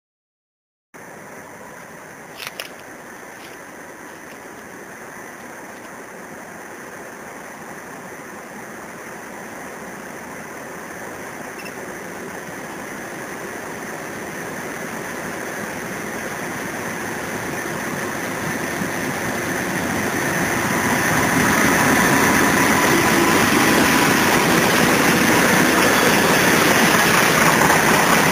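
A CSX freight train approaching and passing: the diesel locomotives grow steadily louder over about twenty seconds, then the train of covered hopper cars rolls past at a steady loud level. A couple of sharp clicks sound near the start.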